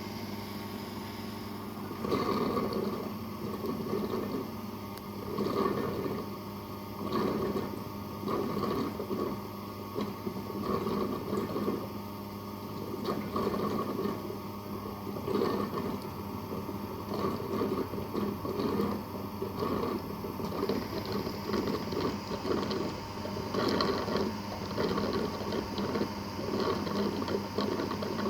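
Roborock Qrevo S robot vacuum-mop system running: a steady motor hum, with an irregular pulsing rumble starting about two seconds in.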